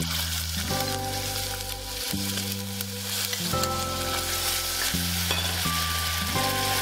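Melted margarine and palm sugar sizzling in a stainless steel pot with a steady hiss as thick coconut milk is poured in and stirred with a metal spoon. Background music of held low notes plays alongside.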